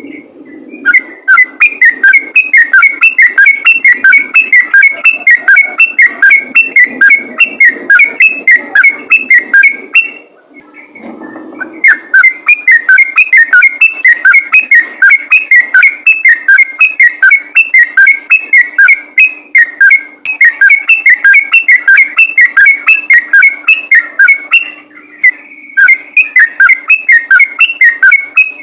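Yellow-vented bulbul (trucukan) singing a fast, continuous run of short whistled notes, several a second. The song pauses for about two seconds some ten seconds in and briefly near the end.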